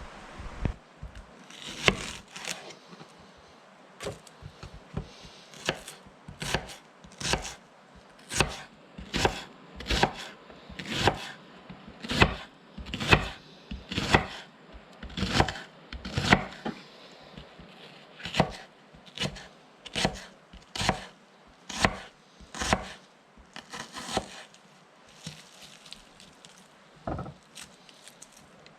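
Knife chopping vegetables on a cutting board: single sharp chops about one a second, thinning out near the end.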